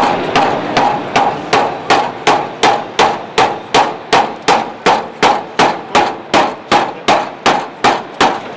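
Steady, rapid hammer blows on the steel bodywork of a Triumph TR7, about three a second, each with a short metallic ring, as a spot-welded panel is worked loose. The blows begin right away and stop shortly before the end.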